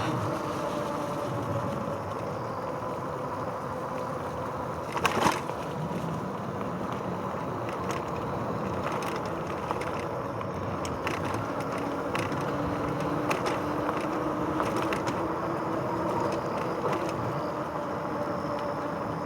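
A RadRover 5 e-bike's fat tyres rolling steadily along a path, with a faint hum from the hub motor that rises slowly in pitch partway through. One sharp crack about five seconds in, with scattered small clicks.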